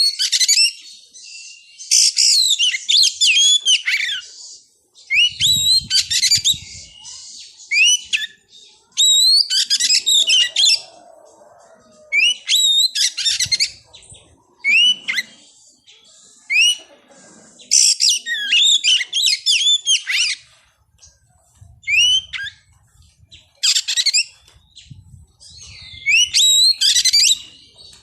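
Oriental magpie-robin (kacer) singing: short bursts of rapid, varied whistled notes with quick upward sweeps, a new phrase every second or two, with a few faint low thumps between them.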